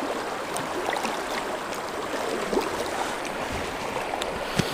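Rushing river water running steadily, with a short sharp knock near the end.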